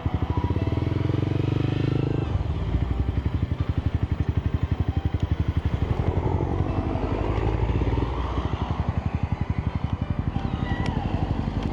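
Motorcycle engine running at a low idle, with an even, rapid pulsing beat that is louder for the first two seconds.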